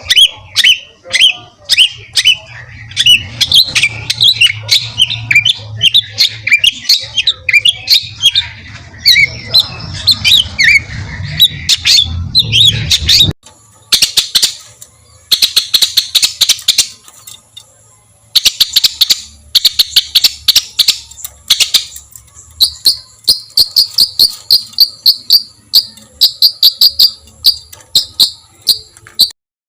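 Songbird song made of harsh, rapid-fire phrases, the 'tembakan kasar' style that bird keepers use as master song for contest birds, over a faint low hum. About 13 seconds in, the sound cuts abruptly to another recording of sharp calls, which ends in a fast run of evenly repeated high notes.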